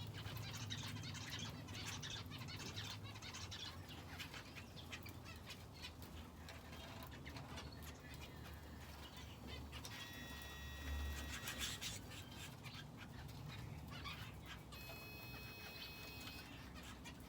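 Small aviary finches and a canary chirping continually in quick short calls, with held whistled notes about ten seconds in and again near the end. A low steady hum runs underneath.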